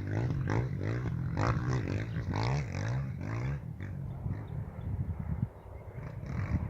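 Motorcycle engine revving up and down in quick repeated throttle blips, about two a second, then growing fainter.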